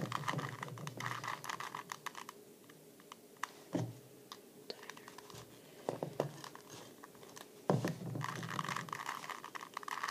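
Small hard-plastic clicks and scraping from a screwdriver turning the centre screw in a 2x2 Rubik's cube's core while the plastic core is handled, with dull knocks about four and eight seconds in.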